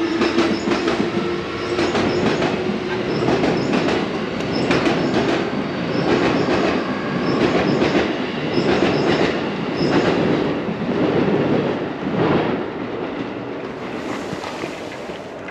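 A train passing close by, its wheels clacking over the rail joints in a steady repeating rhythm of paired clicks over a loud rumble. It eases off near the end.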